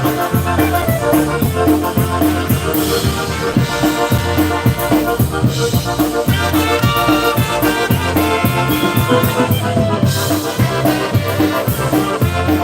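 Live polka band playing the instrumental introduction of a song, with a steady, even beat.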